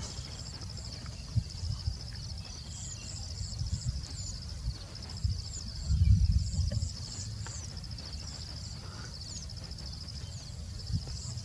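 Insects keep up a steady, pulsing high trill, while birds give short high chirps over it. There are low rumbling thumps now and then, loudest about six seconds in.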